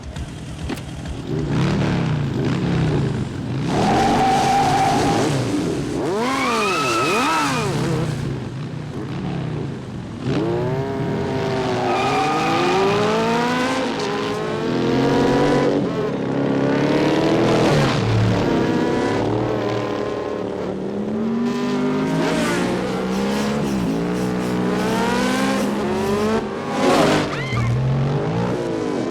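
Motorcycle engines racing hard. The pitch climbs again and again as they accelerate, then drops at each gear change, with the bikes sweeping past.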